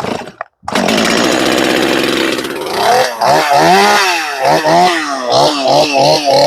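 Stihl MS250 two-stroke chainsaw starting: the engine catches about half a second in and runs fast, then is revved up and down several times before settling to a steadier run.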